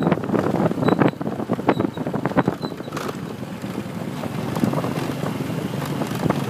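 Wind buffeting the microphone of a moving motorbike, gusting unevenly, with the bike running underneath.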